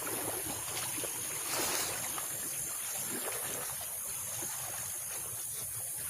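Small waves lapping and washing against the lake shore, a steady low wash of water.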